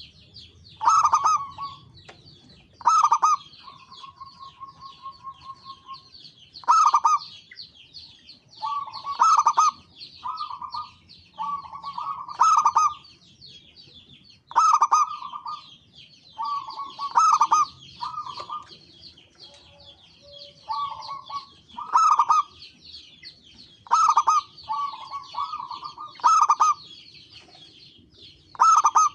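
Zebra dove (perkutut) cooing in short, rapid rolling phrases repeated every one to two seconds. A steady high twittering of small birds runs behind.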